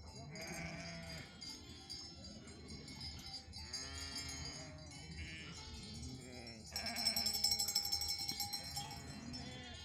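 A flock of sheep bleating, several calls overlapping, with the bells on the animals ringing. The bells are loudest from about seven seconds in.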